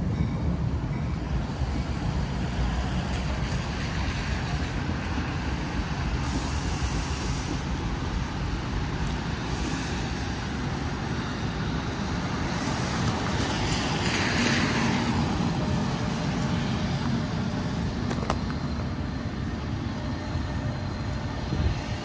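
NJ Transit electric train of multilevel coaches running over an overpass bridge overhead, a steady low rumble. A hiss swells and fades about two-thirds of the way through.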